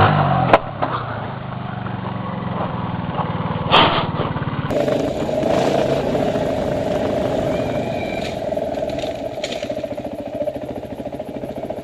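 Dirt bike engine running at low revs, with two sharp knocks in the first few seconds. About halfway through, the sound changes abruptly to a dirt bike engine idling steadily.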